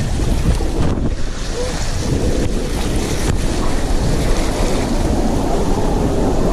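Water rushing and splashing around a raft on a water-park slide, with wind buffeting the camera microphone.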